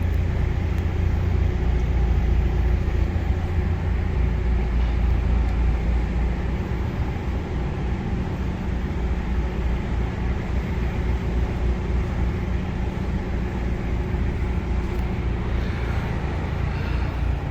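Narrowboat engine running steadily under way, a constant low rumble with an even engine note, heard inside a canal tunnel.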